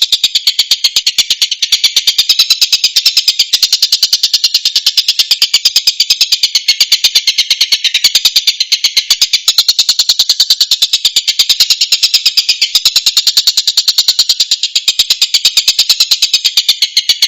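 Tengkek buto kingfisher calling in a long, unbroken rapid chatter of sharp, high notes, several a second, loud and steady throughout.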